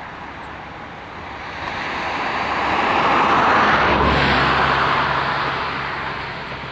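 A vehicle passing by, growing louder to a peak about three and a half seconds in and then fading away.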